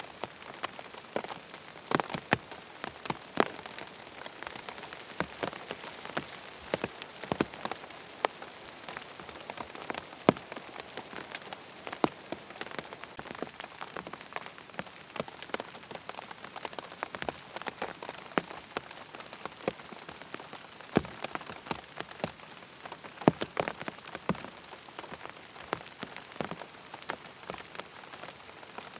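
Steady rain falling on a surface, with frequent sharp, irregular taps of individual drops.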